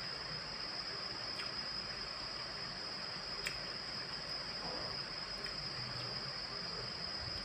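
A person chewing food with faint wet mouth sounds and a few small clicks, over a steady high-pitched whine and hiss.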